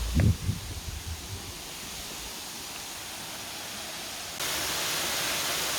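Steady rushing of a small waterfall on the Agura river. A short low thump comes near the start, and about four seconds in the rushing suddenly becomes louder and hissier.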